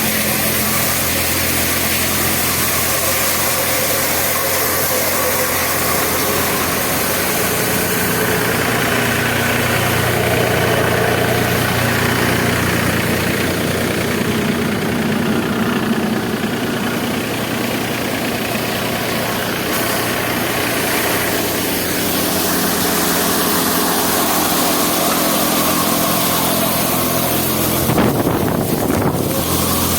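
Tractor engine running steadily, with a brief bump or handling noise near the end.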